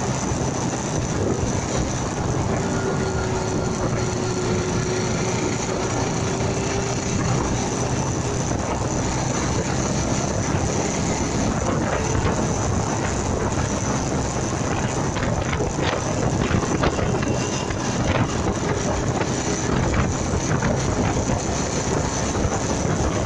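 Motorcycle riding at speed: engine running under a steady rush of wind buffeting the dashcam's microphone.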